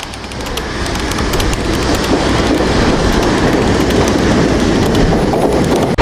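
Train running on rails, its wheels clacking over the rail joints above a dense rumble. It grows louder over the first two seconds as it approaches, then runs on steadily.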